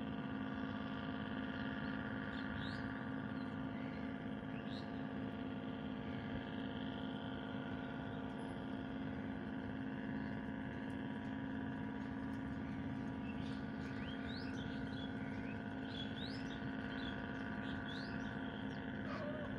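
Small birds chirping in short rising calls, a few early on and more often in the second half, over a steady hum of several held tones.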